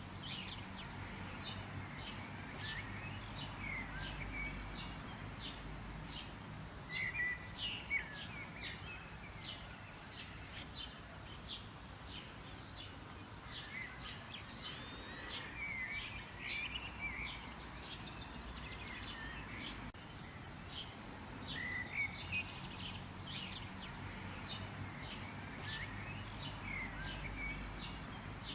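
Several wild birds chirping and calling, with many short, sharp notes and brief trills, over a steady low background rumble.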